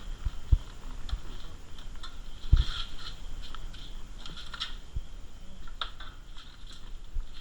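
Irregular dull knocks and scattered light clicks as a fishing net is hauled and handled in a small wooden boat.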